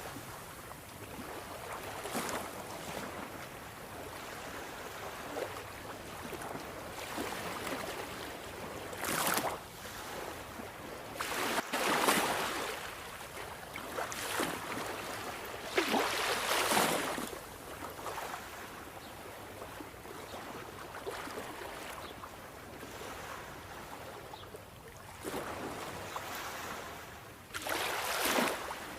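Sea waves: a steady hiss of surf with a wave surging and breaking every few seconds, the loudest about twelve and seventeen seconds in.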